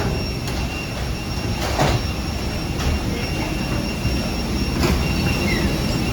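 Steady low rumble of a vehicle heard from inside it, with a few sharp knocks or rattles, one a little under two seconds in and another near five seconds.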